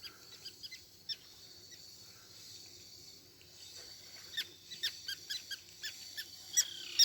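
Birds calling: a string of short, high, falling chirps, sparse at first and coming thick and fast from about four seconds in, with a couple of louder calls near the end.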